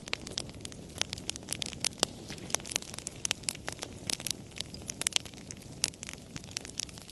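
Fire crackling: irregular sharp pops and snaps, several a second, over a low steady hiss of burning.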